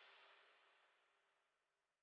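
Near silence: the gap after background music fades out.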